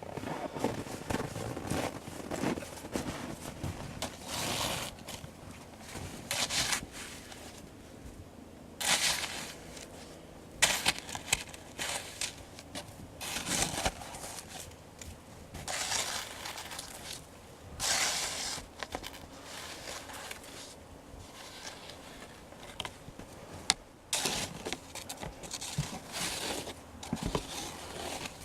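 Shovel digging into packed snow: repeated crunching and scraping strokes, about one every one to two seconds, at an uneven rhythm.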